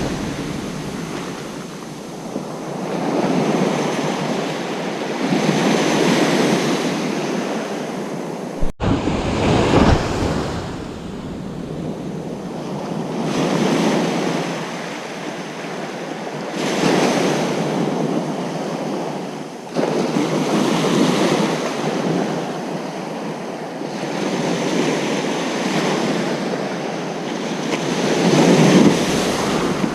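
Ocean surf breaking on a beach, waves surging and washing up the sand in swells every few seconds. A momentary dropout about nine seconds in.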